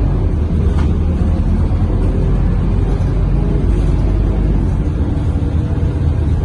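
Scania K230UB city bus's diesel engine running steadily under way, with low road rumble, heard from inside the passenger cabin.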